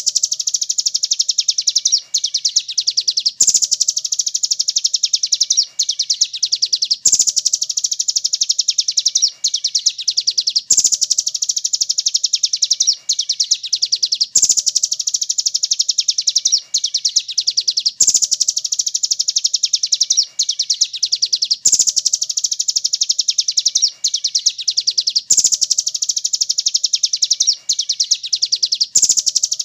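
Rapid, high-pitched bird trill: a dense run of fast notes, repeated in a loop about every three and a half seconds, with a short click where each repeat begins.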